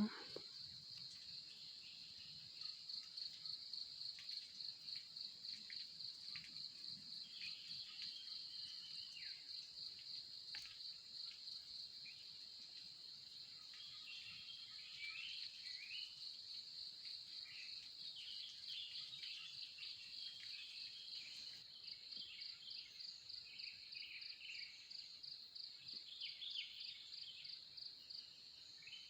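Wild birds chirping and calling here and there over a steady, rapidly pulsing insect trill, high-pitched, which is the loudest sound.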